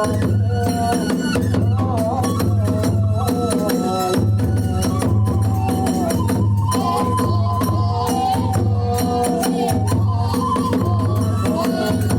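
Kagura hayashi music: drums and small hand cymbals beat a steady rhythm under a high, wavering melody.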